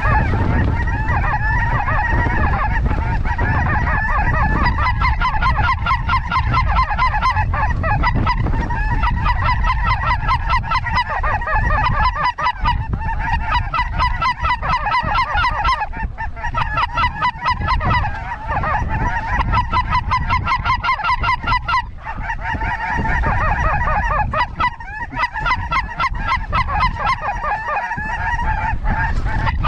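Snow geese calling in a dense, continuous chorus of honks, with brief lulls now and then. Wind rumbles on the microphone underneath.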